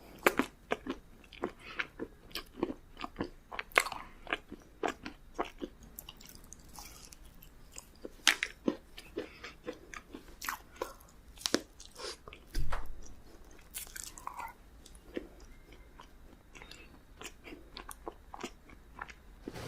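Close-miked eating of cake: chewing with wet mouth clicks and smacks, quick and regular at first, then sparser. There is one low thump about twelve seconds in.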